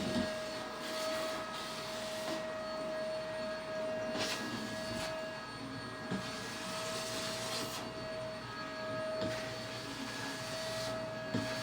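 Vacuum cleaner running with a steady high motor whine, its suction rush swelling and fading several times as the nozzle is worked over carpet edges and stairs.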